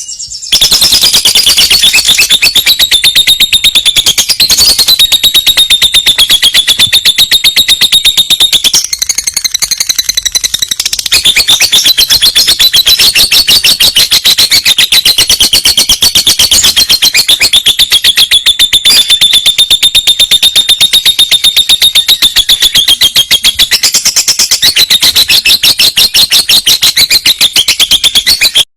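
Lovebird's long trill: a very fast, high chattering rattle held on without a break for nearly half a minute, wavering slightly about nine to eleven seconds in. Very loud.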